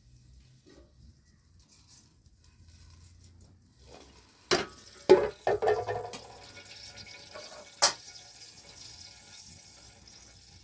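Several sharp clatters and knocks, then a steady soft hiss of water.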